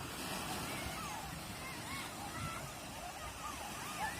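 Many birds calling, short rising-and-falling calls overlapping one another, over a steady wash of sea surf.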